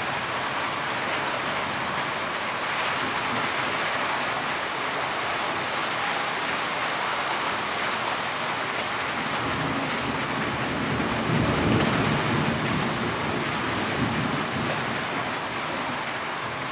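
Heavy rain falling steadily. A low rumble swells up about ten seconds in and fades a few seconds later.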